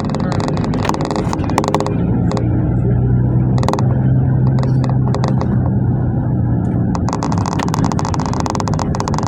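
Inside a moving GAZ minibus: a steady engine drone with road noise and scattered rattles. About seven seconds in, the road noise grows louder.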